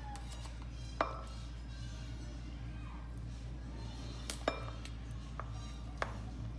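A handful of sharp, separate kitchen knocks and clinks, a couple of them ringing briefly: a utensil striking hard surfaces during food preparation.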